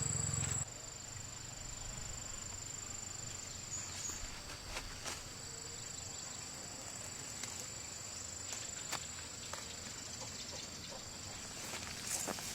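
Insects chirring outdoors in a steady high-pitched drone, with scattered light clicks and knocks. A low hum cuts off suddenly about half a second in.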